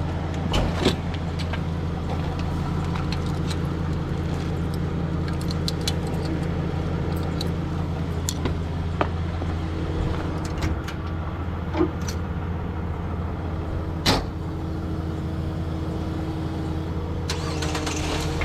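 Diesel engine of a Kenworth T270 rollback tow truck idling, a steady low hum, with a few sharp clicks or knocks, the loudest about 14 seconds in.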